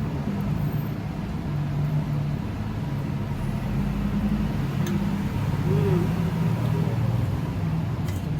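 Engine running with a steady low rumble that swells slightly, a few faint clicks over it.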